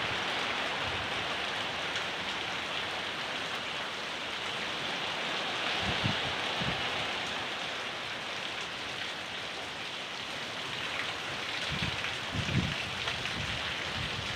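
Steady rain falling, with a few short low thumps about six seconds in and again near the end.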